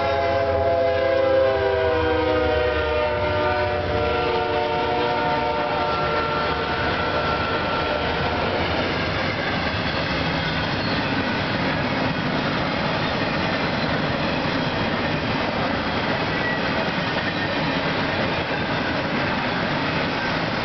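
A CSX freight train led by GE diesel locomotives sounds its multi-tone horn as it passes, the chord dropping in pitch about four seconds in and fading out near the middle. The steady rumble and clatter of the freight cars rolling over the rails follows.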